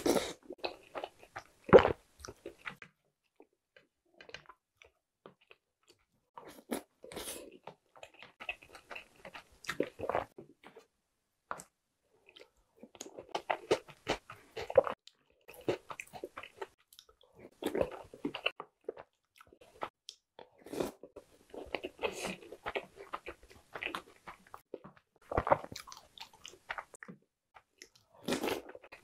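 Close-miked chewing and biting of soaked chocolate cookies and chocolate bread, crunchy and wet mouth sounds in clusters with short pauses between mouthfuls.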